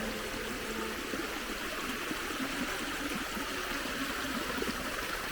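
Stream water flowing, a steady even rush.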